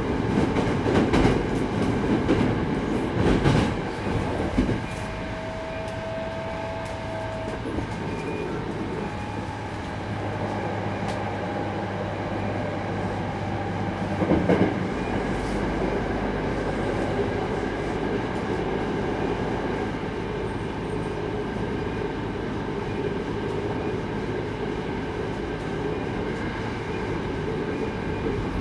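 Hankyu 8200 series electric train (Toshiba GTO inverter) running along the line, heard from inside the car: a steady rumble of wheels on rail, with clacks over rail joints in the first few seconds. A brief steady whine comes about five seconds in, a louder clatter about halfway, and then a deeper rumble sets in.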